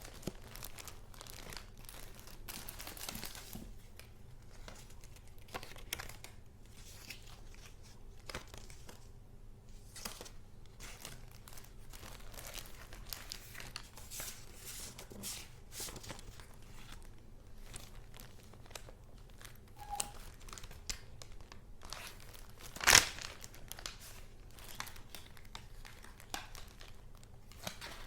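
Paper and card rustling and crinkling as handmade junk journal pieces are handled and leafed through, with small ticks and taps. One loud, sharp click comes near the end.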